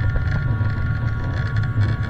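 Jet airliner heard from inside the passenger cabin: a steady low rumble with several steady whining tones from the engines.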